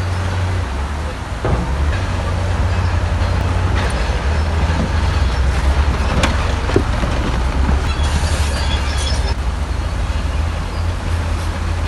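Crawler bulldozer's heavy diesel engine running with a steady low rumble, with metallic clanks from the machine and a brief high squeal about eight seconds in.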